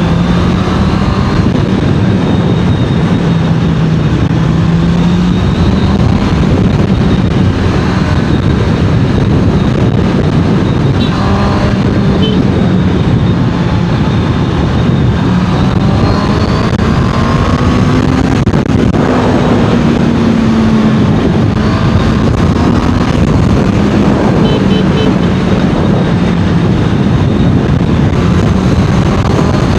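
Honda CBR650R's inline-four engine running on the road, its pitch slowly rising and falling with the throttle. A heavy, steady rush of wind and road noise runs under it.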